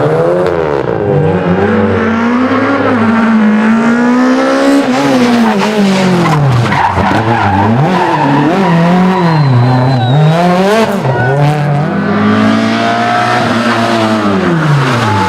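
Rally car engine driven hard at full throttle, its pitch repeatedly climbing and dropping through upshifts and lifts, with tyre noise from the loose surface. A few sharp cracks come around the middle.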